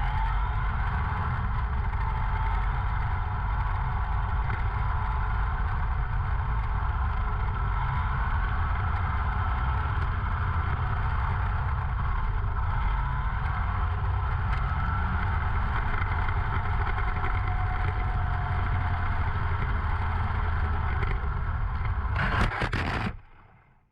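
Running audio from a 1/10 scale electric RC car on track: a steady rush of wind and rumble on the microphone with a faint, wavering motor and gear whine. A short clatter comes near the end before the sound fades out.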